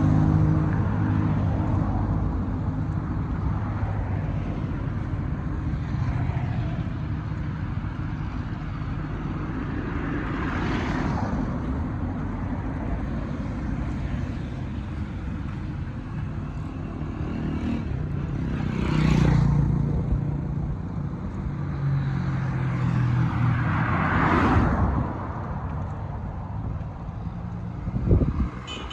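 Road traffic: steady engine and tyre noise, with vehicles passing close by three times, each swelling and fading away.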